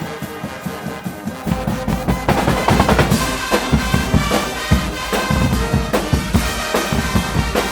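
Guggenmusik carnival band playing, brass and drums together. About a second and a half in, the full band comes in louder over heavy, regular drum beats.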